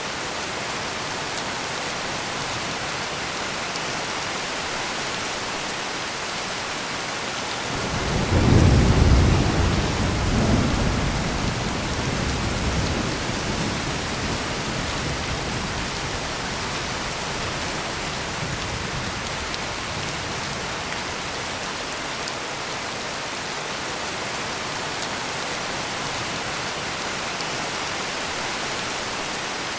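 Heavy rain falling steadily, with one thunderclap about eight seconds in that swells into a low rumble and rolls away over the next several seconds.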